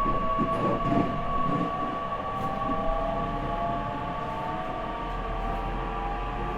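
Inside an E501 series EMU motor car, the Toshiba IGBT inverter and traction motors whine in several tones that climb slowly in pitch as the train gathers speed, over steady running noise of wheels on rail.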